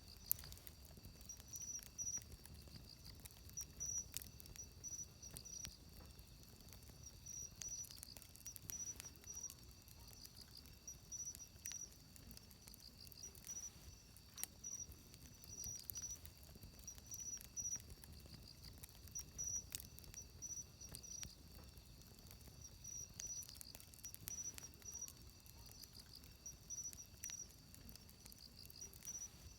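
Wood fire crackling, with sharp irregular pops over a soft low rush of the flames. A high, thin chirping in short repeated pulses, like insects, runs steadily behind it.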